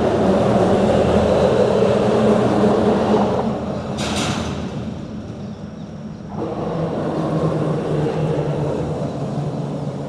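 Road traffic crossing a bridge: vehicles passing with a steady rumble and tyre noise, easing about six seconds in before the next vehicle builds again.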